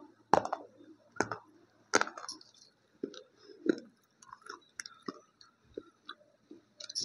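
A piece of multani mitti (Fuller's earth clay) being crunched and chewed: three sharp crunches in the first two seconds, then softer, wetter chewing.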